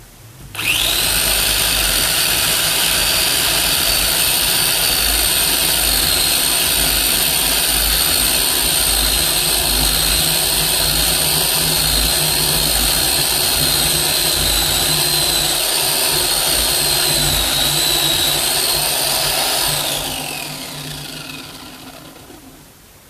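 Electric chainsaw starting abruptly and running at full speed with a steady high whine while cutting wood for about twenty seconds, then released and winding down with falling pitch over the last few seconds.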